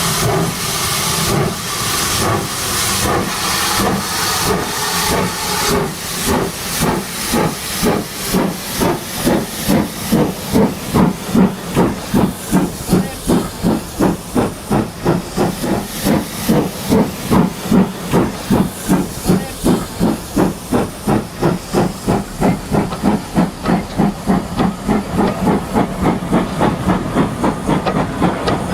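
Steam locomotive pulling away: slow exhaust chuffs over hissing steam at first, the beats quickening to about three a second as it gathers speed.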